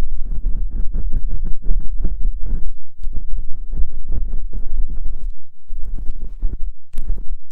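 Close-miked ASMR ear-cleaning sounds: a tool scratching and rubbing at the ear in quick strokes, several a second, with brief pauses about three seconds in and again after five seconds.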